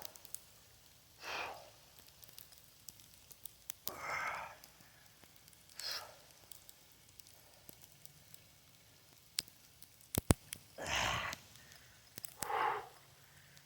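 A man breathing hard through a set of heavy kettlebell overhead presses: five short, forceful breaths a few seconds apart. A pair of sharp clicks comes about ten seconds in.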